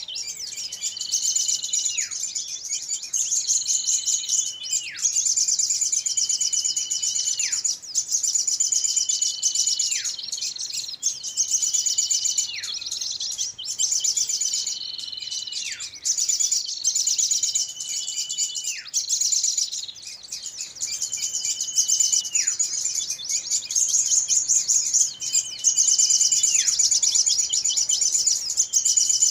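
Bird-lure recording of small birds calling in a commotion: a continuous rapid, high chatter, with a whistled note that holds and then drops steeply, repeating every few seconds.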